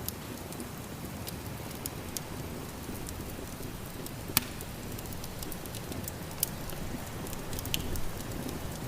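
Wood fire crackling and popping in a fireplace, with sharp snaps scattered throughout and one louder pop about halfway through, over a steady low rush of snowstorm wind.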